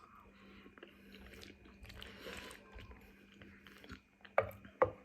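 A person chewing food, with soft scattered mouth clicks and smacks and two sharper clicks near the end.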